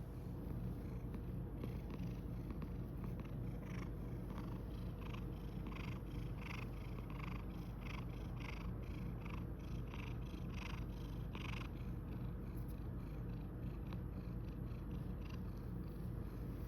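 Domestic cat purring steadily, a low pulsing rumble, while being kneaded. Soft swishes repeat about twice a second until about two-thirds of the way through, then stop while the purring goes on.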